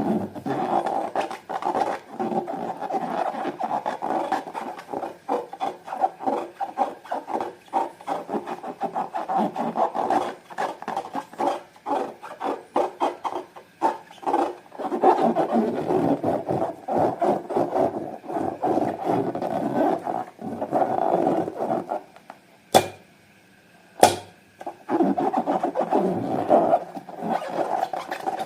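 Slime being squeezed and worked by hand, a dense sticky crackling and squelching. Near the end it pauses briefly, broken by two sharp clicks about a second apart.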